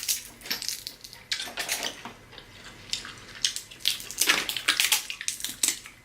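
Close-up wet eating sounds: a string of short slurps and smacks as crab meat is sucked and chewed out of sauce-covered shells.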